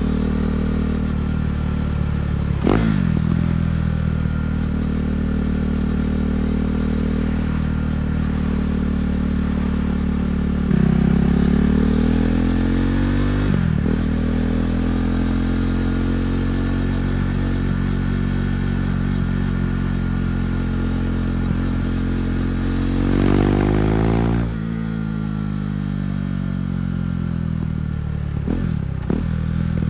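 KTM 390 Duke's single-cylinder engine through an Akrapovic exhaust, ridden in traffic. It accelerates through the gears with rising revs and short breaks at the shifts, cruises steadily, then revs up and drops off sharply about 24 seconds in and winds down as the bike slows.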